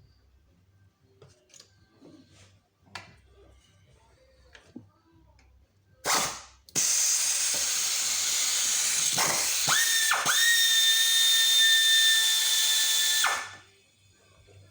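Tools handled with faint clicks and knocks, then a power tool motor runs for about seven seconds with a loud hiss and a high whine, dipping briefly twice near the middle before holding steady and cutting off.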